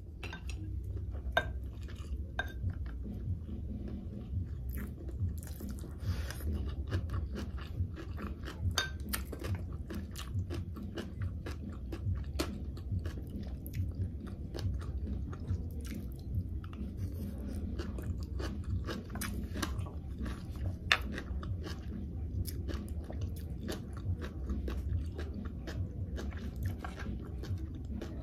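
Close-miked chewing of fresh sea grapes (lato seaweed): a dense, continuous run of small crisp pops and crunches as the bead-like sprigs burst between the teeth.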